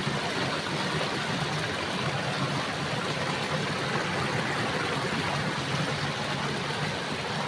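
Small stream of clear water running over stones, a steady, even rushing sound.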